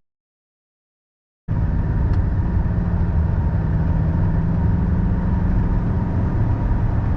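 Silence for about a second and a half, then steady engine and road noise from a moving car, with a constant low hum.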